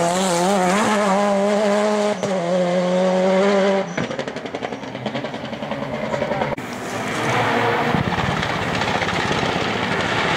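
Rally car engine at high revs as it passes close by, its pitch wavering up and down. About four seconds in, the sound cuts abruptly to a quieter, rougher stretch. Another rally car's engine then builds steadily as it approaches.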